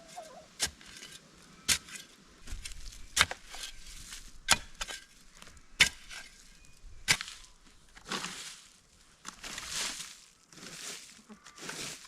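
Weeding an overgrown garden bed: six sharp strikes about a second and a half apart, then rustling of plants being pulled from about eight seconds in.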